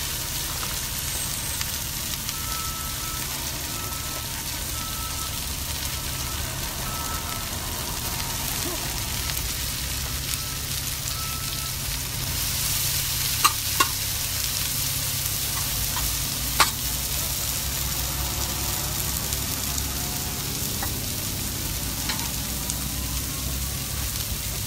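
Hash browns with onions and bell peppers frying on a propane gas cooker: a steady sizzle, with a few sharp clicks about halfway through.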